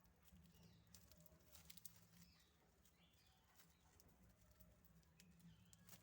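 Near silence: a faint low hum with scattered faint clicks and taps.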